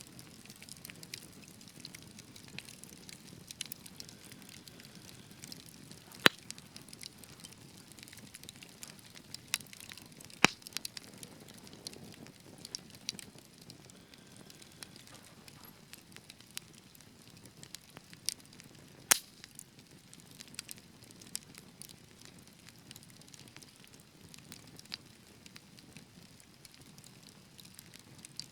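Wood fire burning steadily with a soft low rustle and scattered sharp crackles and pops, a few louder snaps standing out at about 6, 10 and 19 seconds in.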